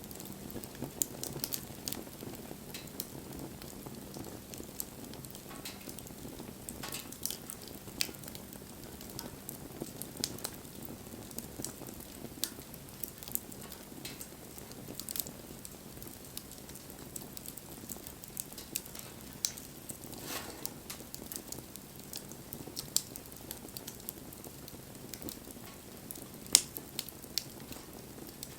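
Wood bonfire crackling: irregular sharp pops and snaps over the low steady rush of the burning fire, with one louder pop near the end.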